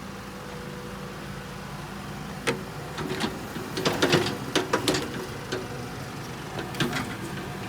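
Excavator engine running steadily, with a run of sharp knocks and clatter, as of rock and the steel bucket, starting about two and a half seconds in and busiest around the middle.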